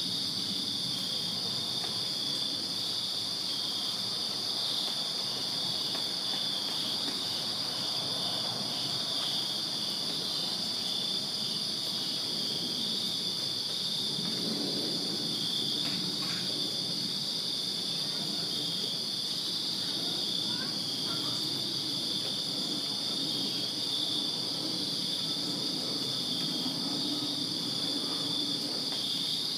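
Crickets chirping in a steady night chorus: a continuous high-pitched trill with a pulsing chirp just below it. A faint low background rumble rises from about halfway through.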